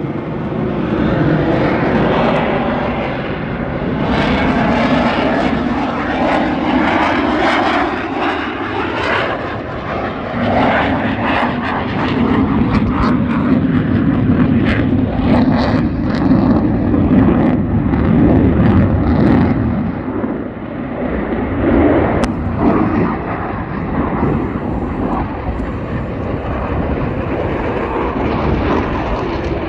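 Airplane engine running loud and steady, rising and dipping in level.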